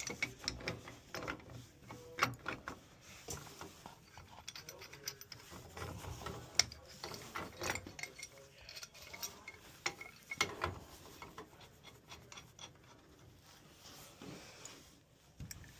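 Irregular metallic clicks, scraping and rattling of hand tools working threaded gas-pipe fittings while a gas pressure regulator is connected.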